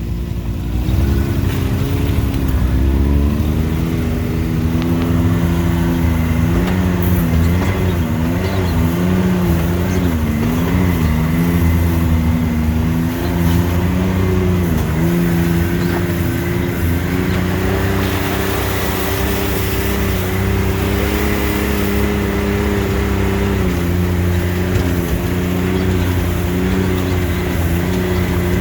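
Off-road vehicle's engine running at low trail speed. The engine speed rises and falls repeatedly as it crawls over uneven ground, then settles to a steadier pace.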